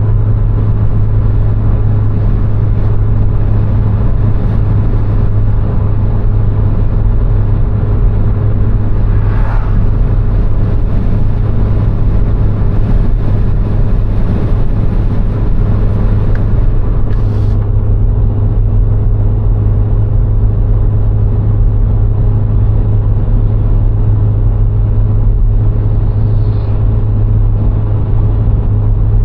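A VW Golf IV's 1.6-litre four-cylinder petrol engine and tyre noise while driving at a steady pace, a continuous low drone.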